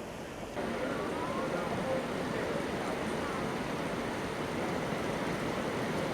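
Steady rushing hiss of artificial rain pouring down in an indoor rain installation, with faint voices under it. It jumps louder a little over half a second in.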